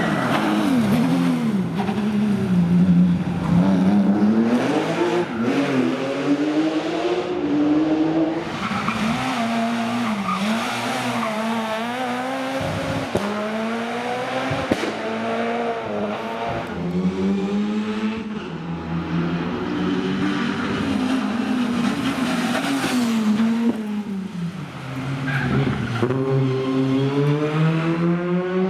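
Rally cars driven flat out on a stage, engines revving up and dropping back again and again through gear changes and corners, with a couple of sharp cracks near the middle.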